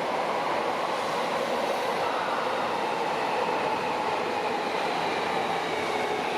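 Chiyoda Line subway train running in an underground station: a steady rail rumble with a faint motor whine that slowly falls in pitch as the train slows.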